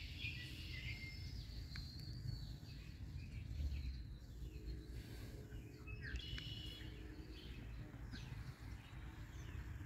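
Faint outdoor background: birds chirping now and then over a low, steady rumble.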